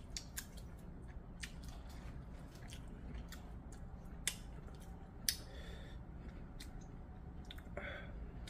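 A person chewing food with scattered sharp wet clicks and smacks from the mouth, over a steady low hum.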